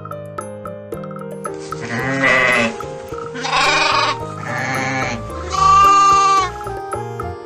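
Sheep bleating several times, wavering calls one after another, over light background music.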